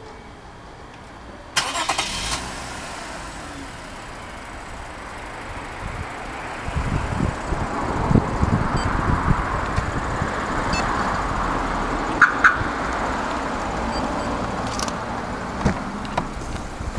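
Lexus IS engine started by remote start: the starter cranks briefly about a second and a half in and the engine catches, then settles into a steady idle. A couple of sharp clicks come near the middle, and another later on.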